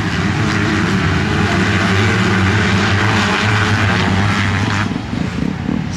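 Motocross bike engines running hard at high revs in an MX2 race, a steady loud drone that eases slightly near the end.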